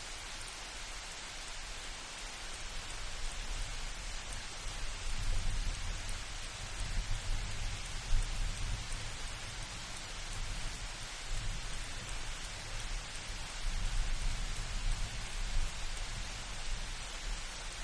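Steady rain falling in an even hiss, with a low rumble of thunder swelling in about five seconds in and rolling on through the rest.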